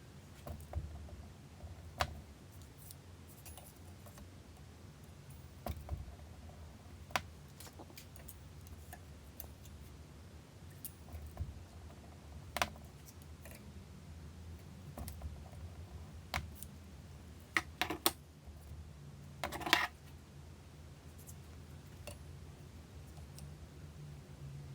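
Scattered small clicks and metallic taps of hand tools and parts being handled, with a cluster of clicks a little before twenty seconds in and a short rattle just after, over a low steady hum.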